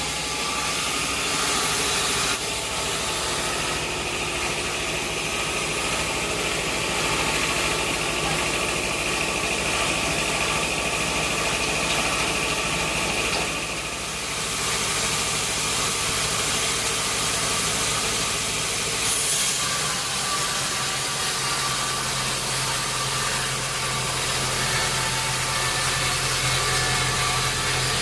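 Sawmill machinery running steadily with a low hum and noise. A high whine rides over it from about four seconds in to about halfway through.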